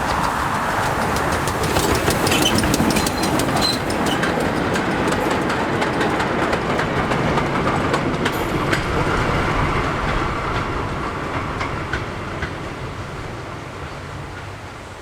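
Steam-hauled train running past on the rails, with a rapid clatter of wheels over rail joints. It dies away over the last few seconds as the train moves off.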